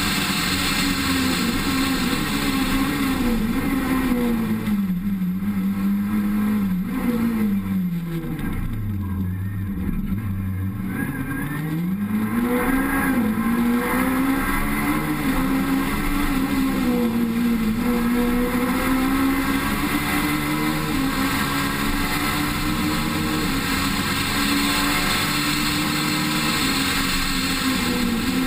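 Rally car engine under hard driving on a special stage, the revs rising and falling with throttle and gear changes. About a third of the way in the revs drop low for a few seconds, then climb back as the car accelerates away.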